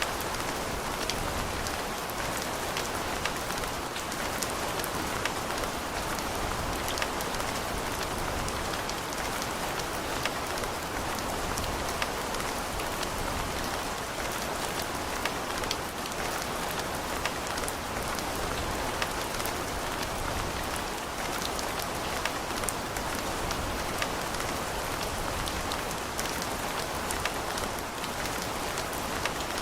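Steady rain falling, a constant patter with many distinct drops ticking on a surface.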